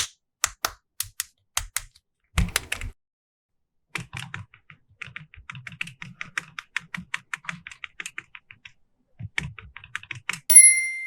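Light clicks and taps of hard plastic toy pieces being handled, spaced out at first, then a quick run of about five a second in the middle. A short electronic toy beep sounds near the end.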